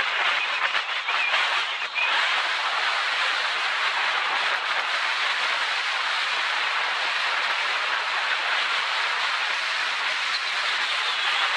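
Steady rush of wind on the microphone and tyre noise from a mountain bike speeding downhill, with a few light rattles in the first couple of seconds.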